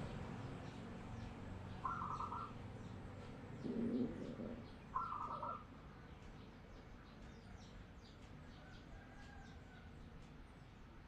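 Zebra dove (perkutut) cooing: two short, rapidly pulsing coo phrases about three seconds apart. Faint chirps of small birds run behind it, and a brief lower sound comes just before the second coo.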